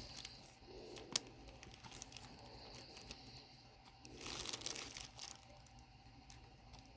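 Faint rustling and crinkling, with a few sharp clicks, as small craft pieces are handled and laid down. The rustling is louder for about a second, starting around four seconds in.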